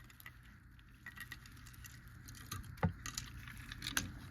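Faint handling noises of a small die-cast toy car being set onto a shelf: scattered light clicks and taps, with sharper clicks about three and four seconds in.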